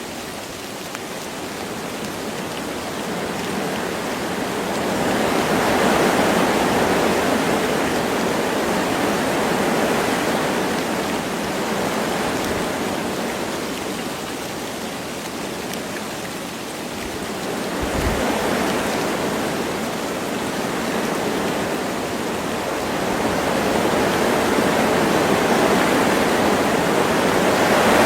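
Wind gusting through forest trees over light rain, the rushing rising and easing in slow waves every several seconds.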